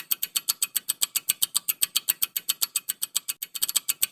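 Countdown-timer sound effect: rapid, evenly spaced clock ticking, about six or seven sharp ticks a second, marking the time left to answer a quiz question.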